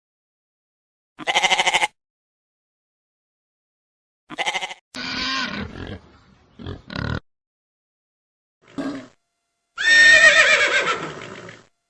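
A series of separate animal calls with dead silence between them: a short pulsing call about a second in, a cluster of calls in the middle, and a longer call near the end that falls in pitch.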